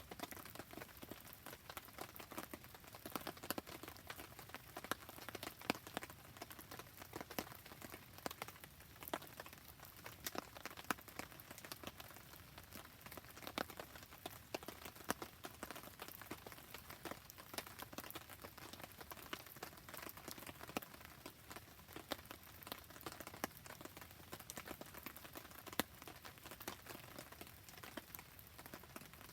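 Rain falling steadily, mixed with a wood campfire crackling, making dense, irregular small clicks and pops.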